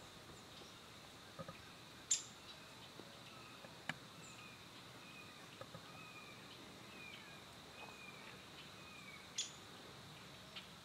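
Quiet rural outdoor ambience with a run of short chirping bird calls, about eight notes in the middle, and a few sharp high clicks, the loudest about two seconds in and again near the end.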